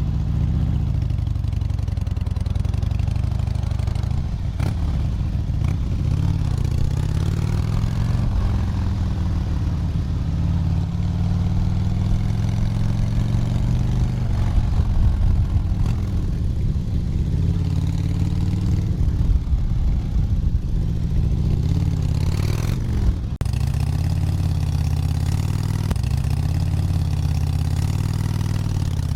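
Motorcycle engine running under way at highway speed, its note rising and falling a little with the throttle, with a brief dip about three quarters of the way through.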